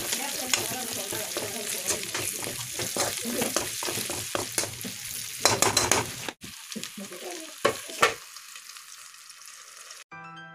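Shallots and curry leaves sizzling in hot oil in a metal wok, with a metal spatula scraping and clicking against the pan as they are stirred. Near the end two sharp metal clanks as a steel plate is set over the pan, and the sizzle turns faint and muffled.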